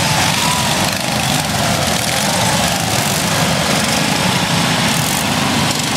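Small lawn and garden tractor engines running steadily.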